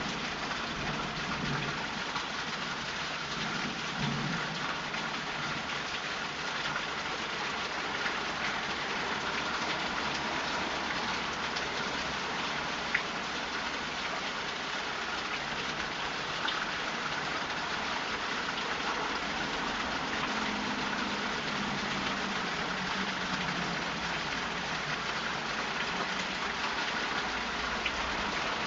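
Heavy rain pouring down steadily in a downpour, with scattered drops pattering on surfaces and a single sharp tick about thirteen seconds in.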